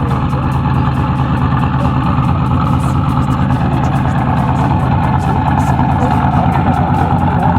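Car engine idling steadily close by, a low, even running.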